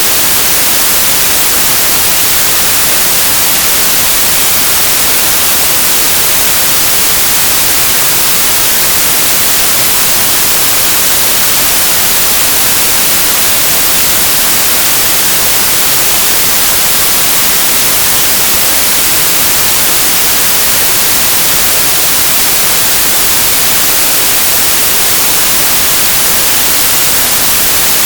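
Synthesized white noise: a loud, steady, even hiss, brightest in the treble, that does not change.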